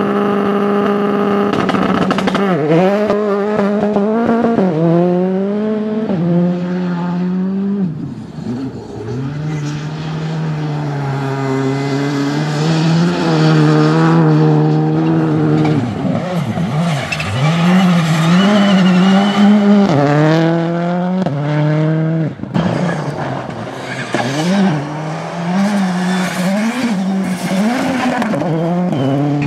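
Rally cars driven flat out on a special stage: the engines rev high and drop again and again through gear changes and lifts, with tyre skidding at times. The engine note changes abruptly about three-quarters of the way through.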